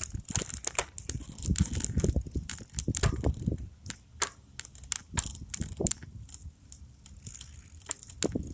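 A bicycle being ridden over rough ground: the tyres crunching, with the frame and parts rattling in a stream of irregular clicks over a low rumble.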